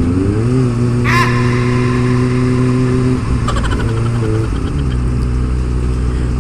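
Kawasaki ZX25R's 249 cc inline-four running through an Akrapovic exhaust at steady revs. The pitch rises just after the start, then holds, changes again around four seconds in and settles. A short high squeal sounds about a second in.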